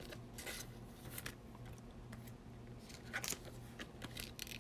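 Baseball trading cards being handled and flipped through, giving short scattered sliding and flicking sounds, a little louder near the start and around three seconds in, over a steady low hum.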